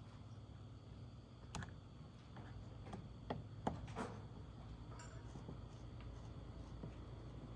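A few scattered light clicks and knocks over a steady low hum, the sharpest ones a little past the middle.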